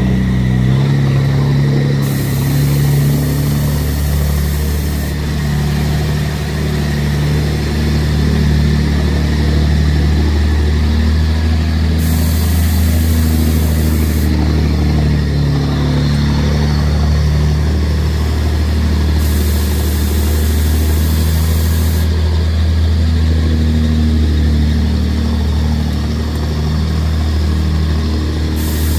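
Deuce-and-a-half military truck's engine running steadily at an even pitch, a deep drone with no revving up or down.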